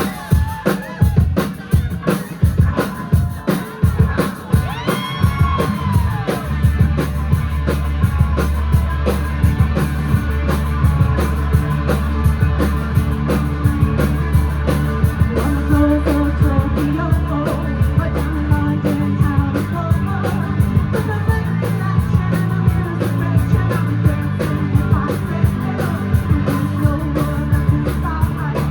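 Live rock band with drum kit, electric guitars and bass. Hard drum hits and sliding guitar notes open it, then the full band settles into a loud, steady groove after about six seconds.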